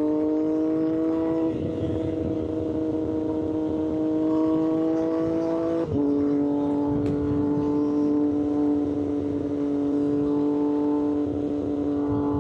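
Triumph Street Triple 765 RS inline-three engine through an aftermarket SC-Project exhaust, heard from the rider's seat while pulling with a slowly rising engine note. About six seconds in there is a quick upshift, with a brief break and a drop in pitch, and then the engine settles into a steady cruise.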